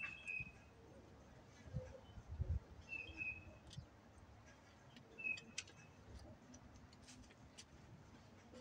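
A bird gives short, high chirps three times, a couple of seconds apart, over quiet outdoor ambience. Light clicks and a couple of low thumps come from hands working among the garden plants.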